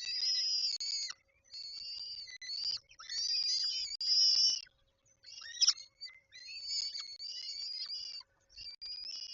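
Peregrine falcons calling at the nest: a run of harsh, high, grating calls in bouts of about a second each with short breaks between them.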